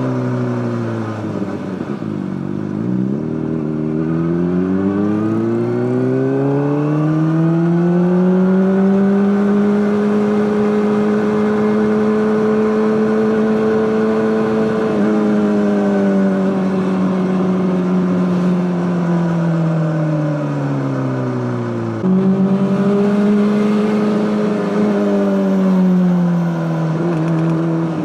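Honda CBR600RR inline-four engine through an Akrapovic exhaust. The revs fall, climb steadily, hold, then ease down. About two-thirds of the way through the pitch jumps up suddenly and then falls away again.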